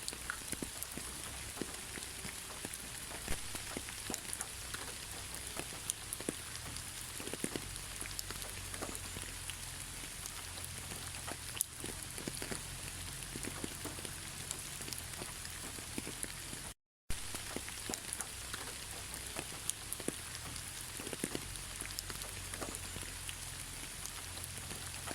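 Steady rain: an even hiss of rainfall with many separate drops ticking and pattering on a surface. The sound cuts out completely for a split second about two-thirds of the way through.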